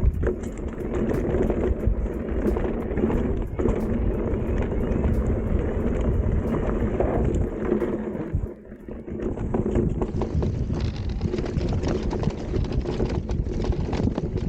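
Wind buffeting the microphone, with tyre and trail noise from a riding electric mountain bike, dipping briefly about eight and a half seconds in.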